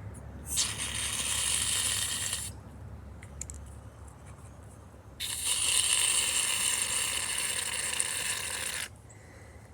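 Aerosol can of shaving cream spraying foam in two long hisses, the first about two seconds long, the second, starting about five seconds in, nearly four seconds long.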